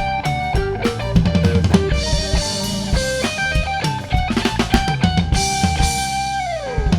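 Live band music with drum kit and guitar playing an instrumental passage without vocals. Near the end a long held note slides down in pitch as the song winds down.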